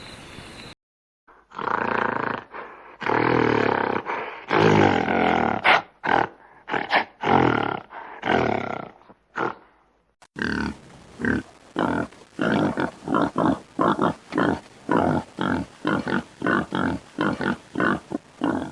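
Animal vocalising: long, loud, harsh calls that break into shorter ones, then, after a cut, a fast run of short rhythmic grunts, about two or three a second.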